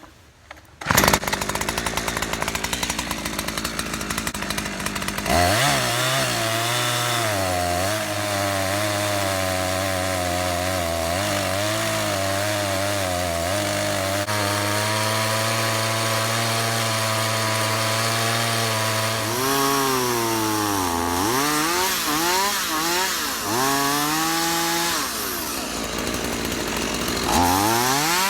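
Holzfforma G372XP chainsaw, a two-stroke Husqvarna 372XP clone, starts about a second in and runs at a lower steady speed. It then goes to full throttle and holds steady as it rips lengthwise through a log in an Alaskan mill. Near the end the engine pitch dips and recovers several times as the saw bogs under the cutting load, then rises again.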